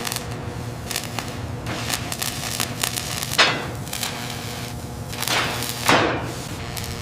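Workshop tool noise during rust stripping: many quick clicks and knocks over a steady hum, with two falling whooshes, one about three and a half seconds in and one near six seconds.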